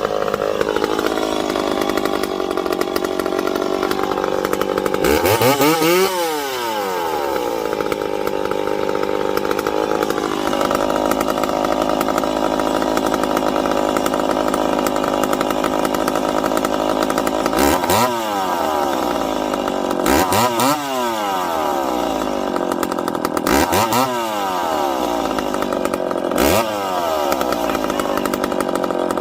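Poulan Pro Max 700 two-stroke chainsaw running, idling between sharp throttle revs: one about five seconds in, then four more in the second half, each rising quickly and dropping back. The freshly fuelled used saw is being run up while its carburettor is being tweaked to get it running right.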